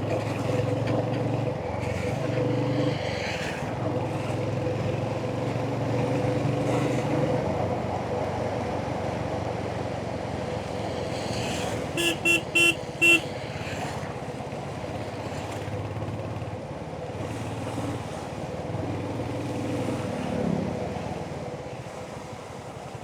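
Royal Enfield Hunter 350's single-cylinder engine running on the move, its note rising and easing. About halfway through, a horn gives four short toots in quick succession.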